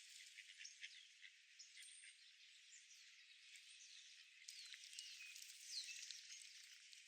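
Faint outdoor ambience: a steady soft hiss with a few thin, high chirps and short sweeping calls of small birds, most of them a little past the middle.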